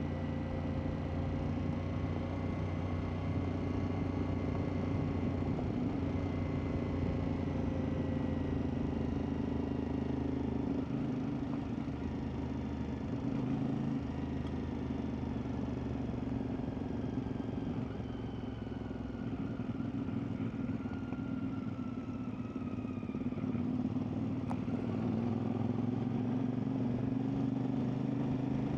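CfMoto 450MT's parallel-twin engine running steadily under way, its pitch easing off about two-thirds of the way through and picking back up near the end, with a single brief click just before it rises.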